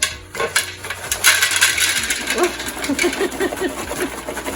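Microwave popcorn being poured from its paper bag into a bowl: a dense, continuous rattle and rustle of popcorn and kernels with the bag crinkling.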